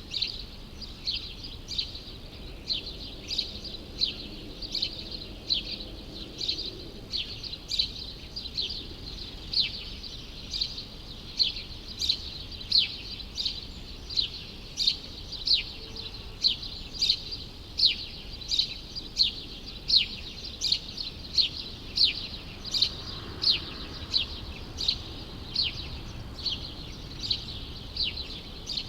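A small bird chirping over and over, short high chirps that each drop in pitch, about two a second in a steady, unbroken run, over a faint low hum of city background noise.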